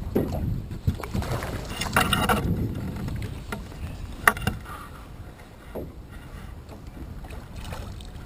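Wind rumbling on the microphone in a small fishing boat, broken by a few sharp knocks, the sharpest about four seconds in, and a louder rush of noise about two seconds in.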